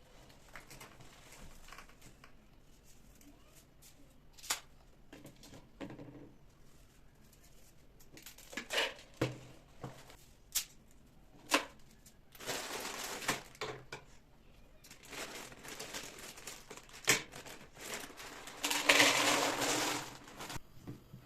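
Household handling sounds: packaging crinkling and rustling in two longer stretches, the second the loudest, among scattered sharp clicks and knocks.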